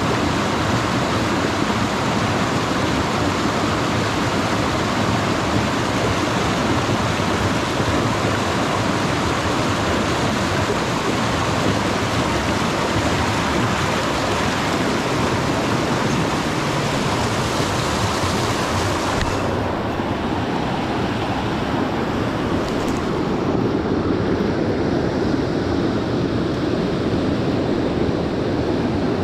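Mountain stream water rushing steadily. About two-thirds through, the hiss turns duller.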